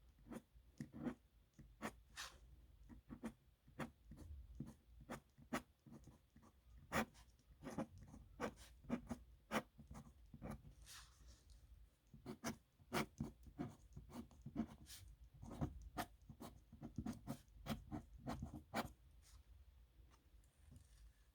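Metal nib of a dip pen scratching across paper in many quick, separate strokes of handwriting, with a few short pauses between groups of strokes.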